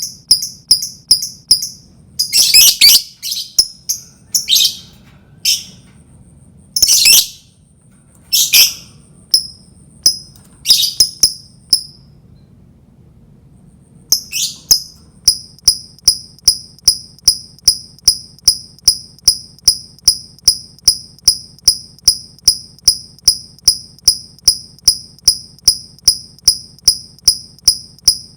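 Lovebird calling: short, sharp high chirps repeated about two to three times a second. In the first half a few longer, louder chattering bursts break in, then the chirps stop for about two seconds in the middle. After that comes an even run of chirps.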